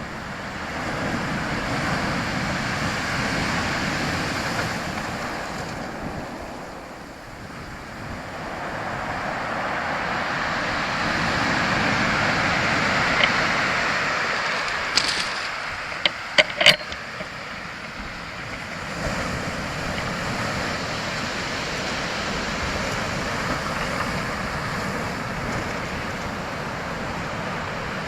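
Steady rushing noise that swells and fades slowly, every several seconds, with a few sharp clicks about halfway through.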